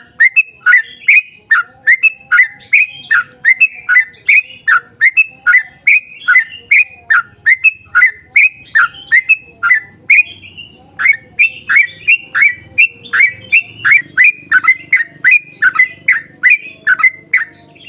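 Yellow-vented bulbul (trucuk) calling in a long rapid run of short, sharp notes, about three a second, with one brief break about ten seconds in.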